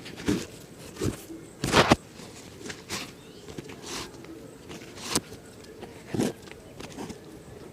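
Shoe-shining sounds: a series of short, irregular brushing and rubbing strokes on a shoe, about one a second, the loudest just under two seconds in.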